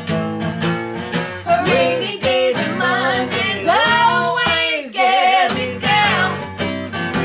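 Acoustic guitar strummed in a steady rhythm under a singing voice holding long, wavering notes through the middle, then the guitar carrying on alone near the end.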